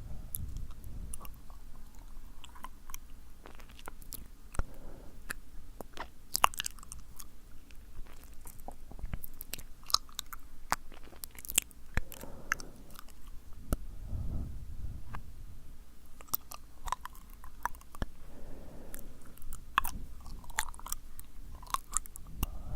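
Close-miked ASMR mouth sounds: wet, sticky lip and tongue clicks and smacks in an irregular stream, with a few soft breathy puffs, one about halfway through.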